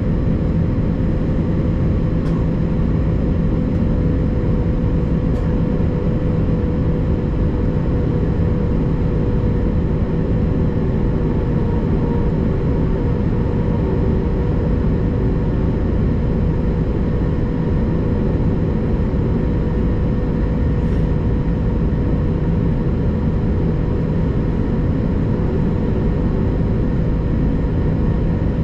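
Qantas Airbus A330-200 jet engines and rushing air: a loud, steady drone with a few constant hums, holding the same level throughout.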